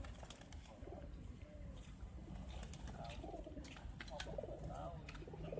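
Domestic pigeons cooing, several overlapping soft coos, with scattered sharp clicks in between.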